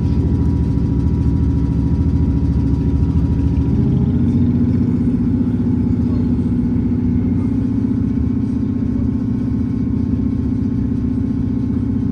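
Diesel multiple unit's underfloor engine and transmission droning steadily, heard from inside the carriage, with the engine note stepping up about four seconds in as the train keeps running along the line.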